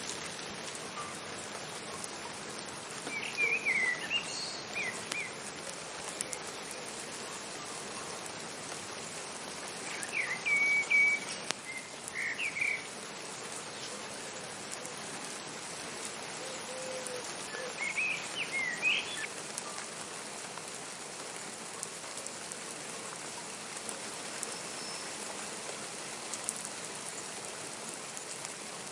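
Steady rain falling. Over it come three short bursts of high chirping calls, in the first half and about two-thirds of the way through.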